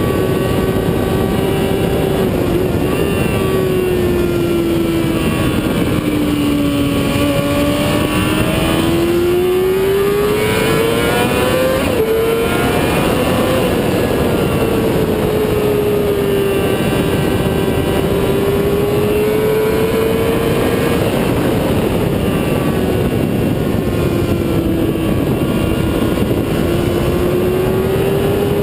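Motorcycle engine running at speed, its note sliding slowly up and down with the throttle, over a constant rush of wind noise.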